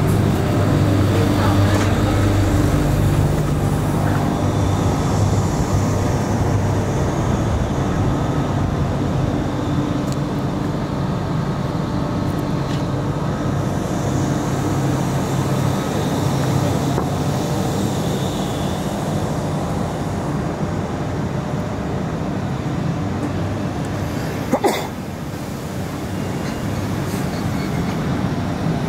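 Electric commuter train running, heard from inside the carriage: steady rolling noise with a low hum, and one sharp knock near the end.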